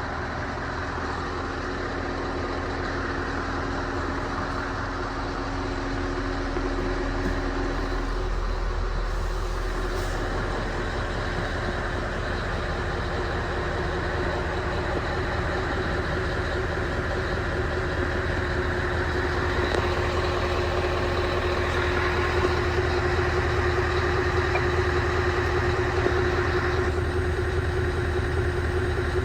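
Scania R 500 truck's V8 diesel engine idling steadily.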